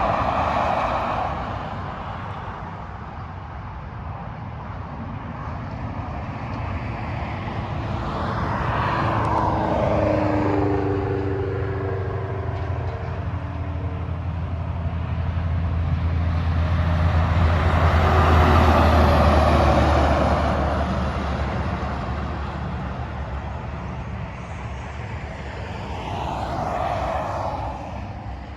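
Freeway traffic passing one vehicle after another: tyre noise swells and fades about four times. The engine note of one vehicle falls in pitch as it goes by about ten seconds in, and a heavy truck's deep engine drone is loudest a little past the middle.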